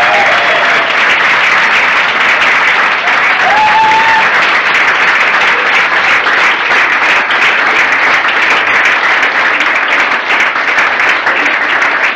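Audience applauding loudly and steadily, with a brief cheer or shout about three and a half seconds in.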